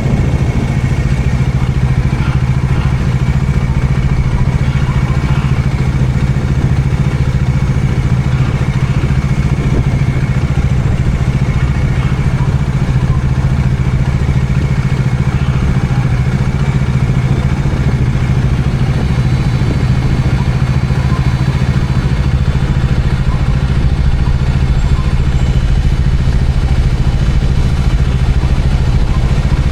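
Bajaj Dominar 400 motorcycle's single-cylinder engine running at steady, unchanging revs while cruising.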